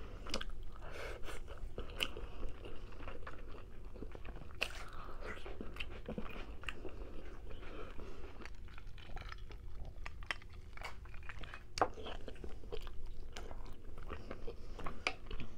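Close-miked chewing of rotisserie chicken, with many scattered sharp mouth clicks.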